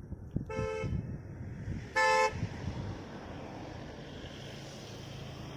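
Vehicle horn honking twice in short blasts, the second one louder, over a steady low rumble of road noise.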